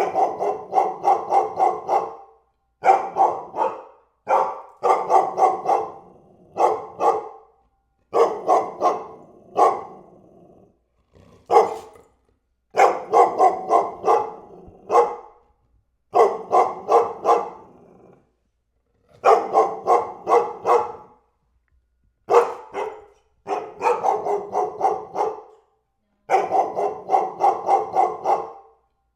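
Dog barking in quick volleys of about four barks a second, each volley lasting one to two seconds, with short pauses between them.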